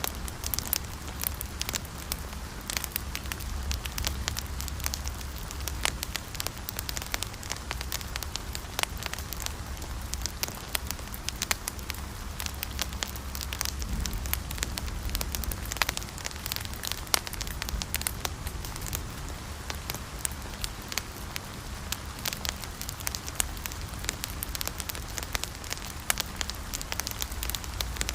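Wood fire burning steadily, with a low rumble of flames and many sharp, irregular crackles and pops.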